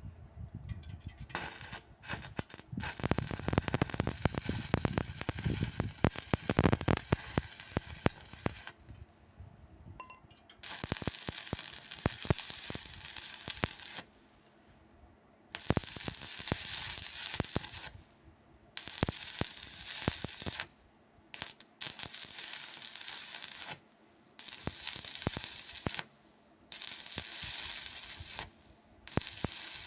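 Stick welding arc crackling and sizzling. A long run comes first, then a series of short welds of about two to three seconds each, with brief pauses between them.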